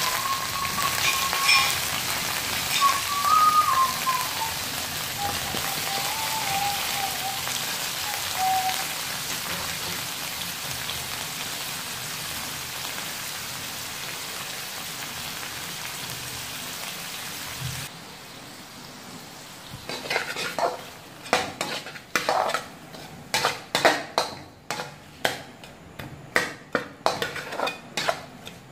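Fish heads and sliced garlic sizzling as they fry in hot oil in a pan, with a thin wavering whistle over the first several seconds. The sizzle drops about eighteen seconds in, and from about twenty seconds a spatula scrapes and knocks against the pan in a quick irregular run of stirring strokes.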